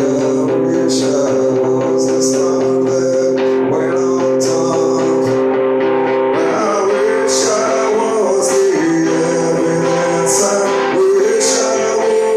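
Live music: a strummed guitar playing steady chords with a voice singing over it, with a bright rasp on the beat about once a second.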